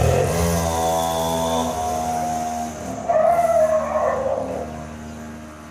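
Mini motocross bike engine running steadily and fading as it moves away. About three seconds in, a brief louder wavering sound rises over it.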